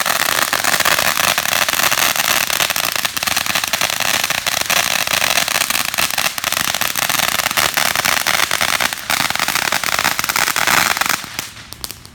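Fireworks crackling: a dense, continuous run of rapid sharp pops that stops abruptly about eleven seconds in.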